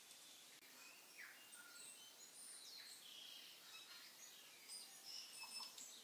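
Faint bird chirping: many short chirps and quick whistles over a quiet background hiss, busier in the second half.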